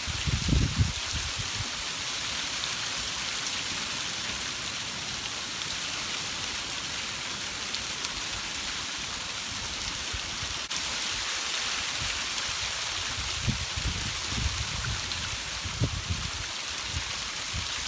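Heavy storm downpour, a steady dense hiss of rain hitting surfaces. Low gusts of wind buffet the microphone just after the start and several times in the last few seconds.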